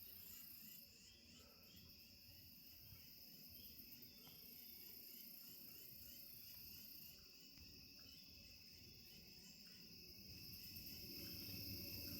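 Faint, steady insect chorus: continuous high trilling at several pitches, typical of crickets in a marsh-side wood.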